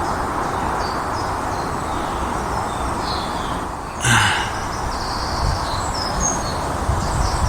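Woodland birds chirping faintly over a steady background hiss, with one louder, sharper bird call about four seconds in. A few soft low thumps of footsteps on a path come in the second half.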